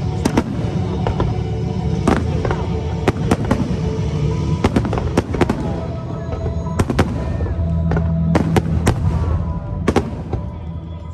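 Aerial fireworks bursting in an irregular run of sharp bangs, a dozen or more, several coming in quick pairs, over music playing.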